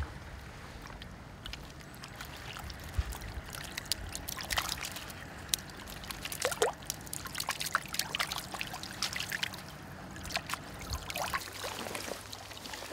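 Water trickling and dripping from a keepnet as it is lowered into the river to release a catch of roach, with many small splashes scattered throughout.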